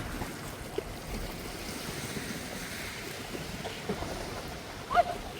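Sea surf washing with wind buffeting the microphone, a steady rushing noise. A brief, sharp, rising sound cuts through about five seconds in.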